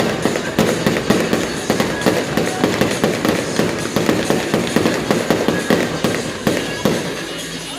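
Fireworks going off in a dense, rapid run of cracks and pops, many a second, thinning out near the end.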